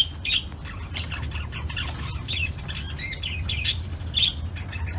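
Small birds chirping: short, high chirps come repeatedly and irregularly over a steady low hum.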